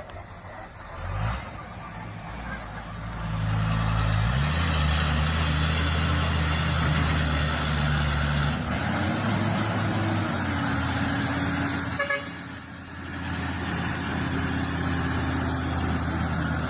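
Heavy logging truck's diesel engine labouring on a muddy road. It picks up and climbs in pitch about three to four seconds in, holds steady and loud, then eases off briefly near twelve seconds before pulling again.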